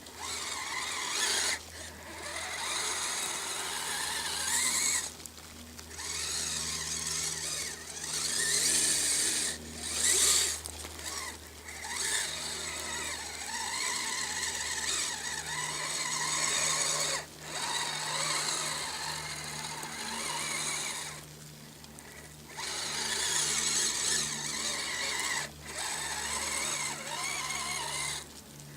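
Kyosho Blizzard SR radio-controlled snow cat's electric drive motors and gearing whining under throttle, in runs of a few seconds broken by short pauses, the pitch wavering as the speed changes.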